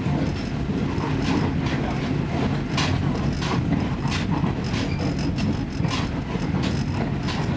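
Train running along the line: a steady low running noise, with irregular clacks and knocks of the wheels over the rail joints.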